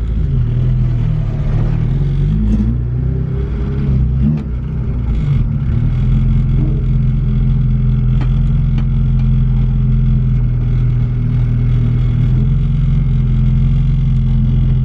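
Car engine running while driving, its pitch rising and falling over the first few seconds, then holding a steady drone.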